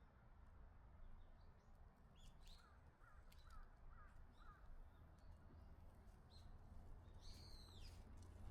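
Faint wild birdsong: scattered short high calls, with a run of five quick chirps about three seconds in and a longer arched call near the end, over a low steady rumble.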